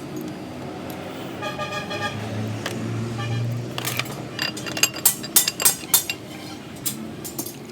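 Sharp metal clinks and taps of tools on engine parts, coming thick and fast in the second half, over a steady low hum. Between about one and a half and three and a half seconds in, a brief pitched tone like a horn sounds.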